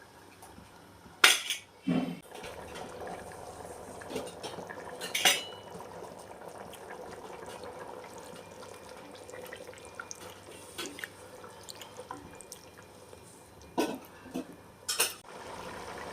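A metal utensil knocking and clinking against a cooking pot several times, with the water in the pot bubbling underneath as the biryani rice cooks.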